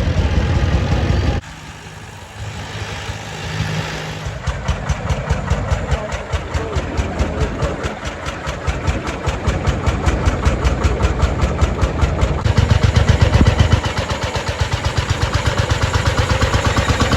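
Vintage tractor engines running. After a sudden cut about a second in, the 1935 Hofherr Schrantz Le Robuste K40's single-cylinder hot-bulb engine takes over with a fast, even beat that grows louder toward the middle.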